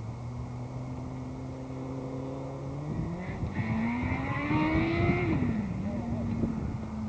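Engine running with a steady hum, then rising in pitch about three seconds in and dropping back sharply about two seconds later before settling at a steady note.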